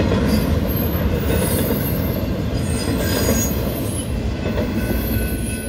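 Double-stack intermodal container cars rolling past close by: a steady, loud rumble of steel wheels on the rails, with brief, irregular high-pitched wheel squeals.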